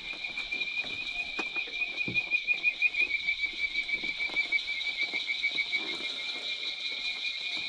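Swamp chorus of calling frogs: a steady, high, rapidly pulsing trill, with a few soft knocks.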